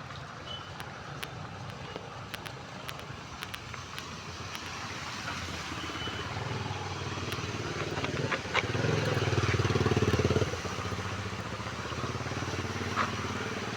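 Rain falling steadily over street traffic, with a motor vehicle's engine growing louder and passing close by about nine to ten seconds in, then fading.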